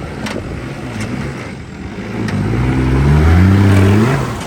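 A four-wheel-drive's engine revving hard as it climbs a soft sand dune under load. Its pitch rises steadily and it grows louder as it comes close, then drops off near the end.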